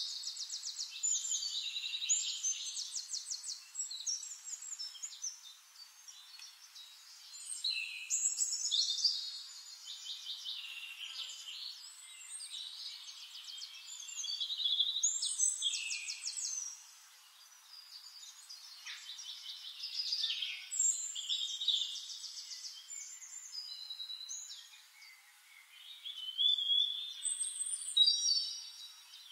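Songbird singing: fast high trills and chirps with short gliding notes, in phrases a few seconds long with quieter gaps between.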